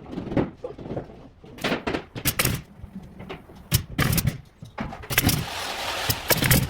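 Irregular knocks and clatter from carpentry work on a building site, about a dozen sharp hits. From about five seconds in a steady rushing noise joins them.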